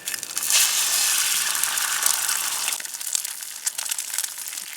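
Food going into a hot pan over a campfire and frying: a loud sizzle starts right away, then eases after about two and a half seconds into a quieter sizzle with scattered crackles.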